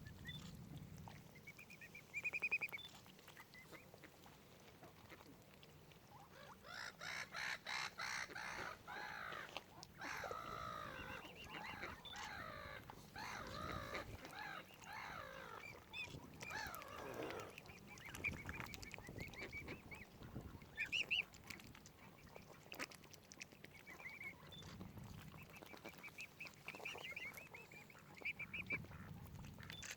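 Waterfowl calling over and over. A dense run of overlapping, wavering calls fills the stretch from about a quarter to just past halfway through, and short high calls come now and then through the rest.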